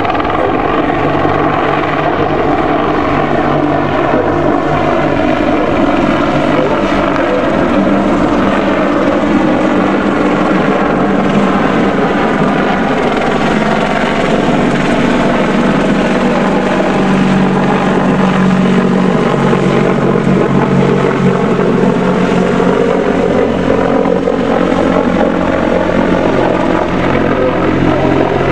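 Army Air Corps Apache AH1 attack helicopter flying a display close by, with its rotor and twin Rolls-Royce RTM322 turboshaft engines running loud and steady. The pitch of its tones slides down and then back up about halfway through as it moves past and turns.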